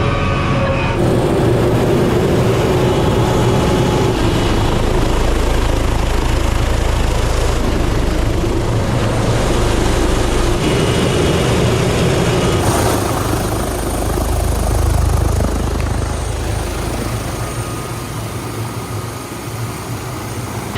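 MD 500 helicopter's turbine and rotor running steadily, heard from the cockpit, dropping slightly in level over the last few seconds.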